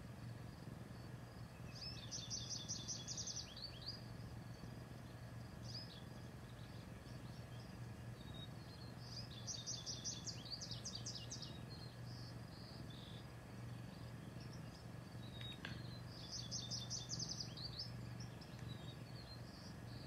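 A songbird singing three short phrases of rapid, high chirping notes, each lasting a second or two and coming about seven seconds apart, over a faint steady low hum.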